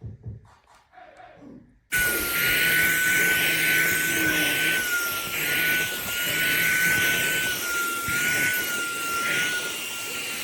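Shark WandVac cordless handheld vacuum switched on about two seconds in, its motor running with a steady high whine over a rush of air that dips slightly in pitch now and then.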